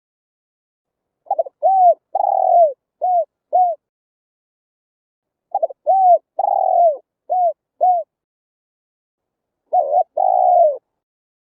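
Spotted dove cooing in three phrases separated by pauses. Each phrase is a run of short falling coos with one longer, drawn-out coo in it. The third phrase, near the end, is shorter.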